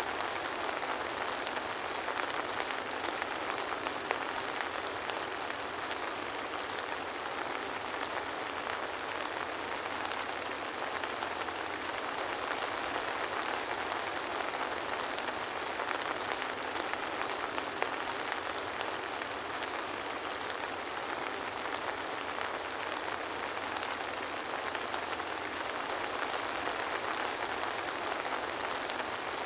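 Steady soft rain falling, an even hiss with scattered small drop ticks and no thunder.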